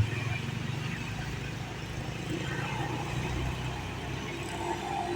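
Heavy vehicle engine running steadily at low speed, a deep continuous hum that swells slightly midway.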